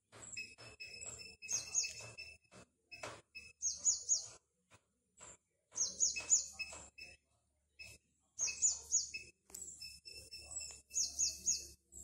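A songbird singing, repeating a short phrase of three or four quick falling high whistles about every two seconds, over a thin steady high tone.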